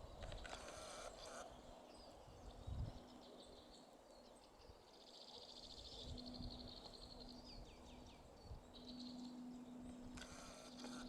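Faint songbird calls: chirps and a rapid trill of repeated high notes, with two short bursts of noise, one about a second in and one near the end.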